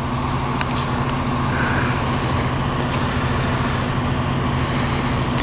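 A vehicle engine idling with a steady low hum, unchanging throughout.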